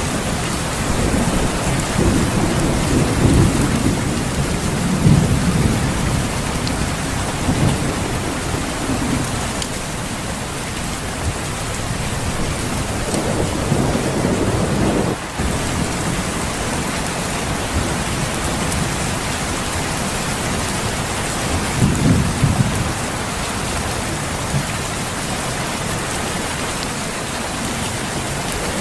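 Steady heavy rain with low rolls of thunder, which swell a few seconds in, around the middle and about three-quarters of the way through.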